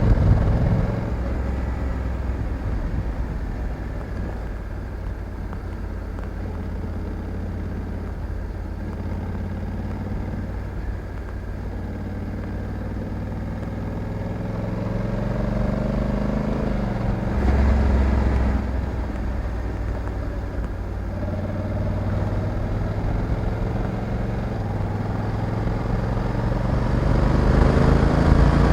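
Honda Africa Twin 1100 DCT's parallel-twin engine running under way. Its note eases off through the middle, surges briefly about two-thirds of the way in, and rises as the bike accelerates near the end.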